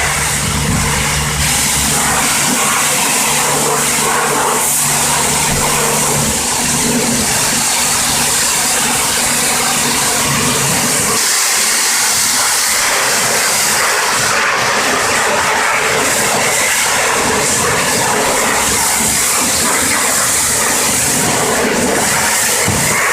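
High-pressure water jet spraying, a loud steady hiss, while washing an engine bay. A low steady hum runs under it and stops about eleven seconds in.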